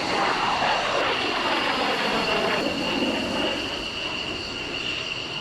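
Fixed-wing aircraft flying past, its engine noise loud and falling in pitch over the first few seconds as it goes by, with a steady high whine underneath.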